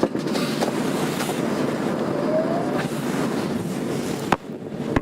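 Interior running noise of a Tokyo Metro 02 series subway train: a steady rumble of wheels on rail, with a faint rising inverter whine about two seconds in as the train gathers speed. Just after four seconds a sharp click is followed by a brief drop in the noise.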